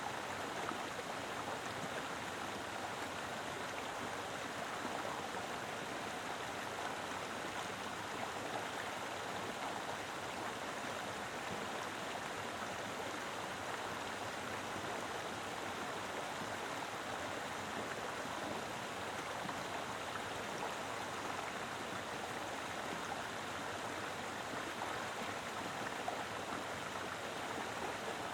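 A mountain river flowing: a steady, even rush of water over rocks.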